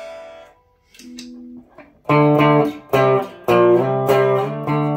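Clean electric guitar tone from a single-coil Fender American Stratocaster through a Fender Twin Reverb amp: a chord rings out and fades, a few quiet notes follow, then from about two seconds in a run of loud strummed chords.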